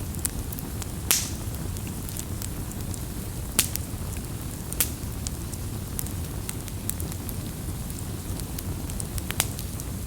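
Campfire crackling: scattered sharp pops and snaps over a steady low rumble from the burning wood, with a few louder pops about a second in, near the middle and near the end.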